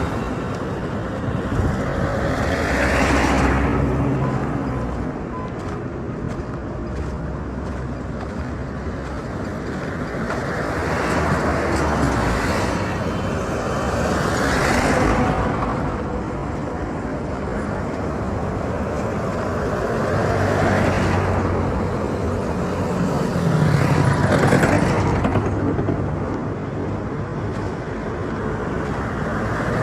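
Road traffic: a string of vehicles passing one after another, each a rising and fading rush of engine and tyre noise over a steady traffic din.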